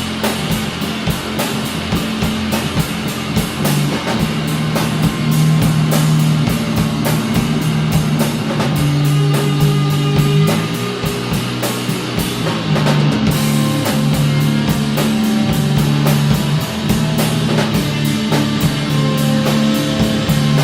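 Stoner rock instrumental: electric guitars holding a low, slowly changing riff over a drum kit, with cymbals struck in a fast, steady rhythm.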